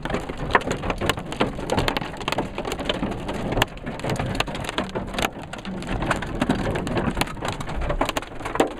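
Hailstones pelting a car's roof and windshield, heard from inside the cabin. The sound is a dense, irregular patter of sharp impacts.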